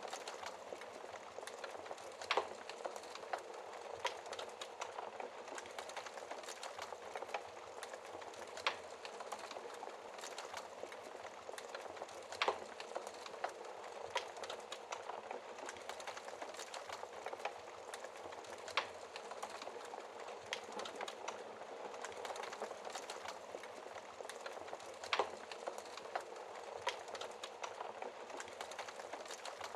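Wood fire crackling, with frequent small snaps and a few louder pops, over a steady hiss of rain.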